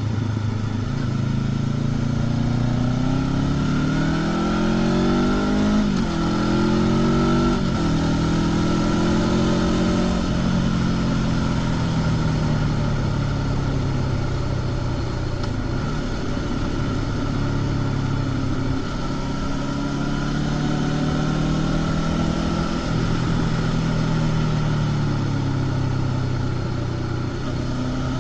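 Honda CB500X's 471 cc parallel-twin engine, on a stock exhaust, heard from the rider's seat. The revs climb and drop sharply twice, about 6 and 8 seconds in, as it shifts up. After that it runs at fairly steady revs that ease up and down.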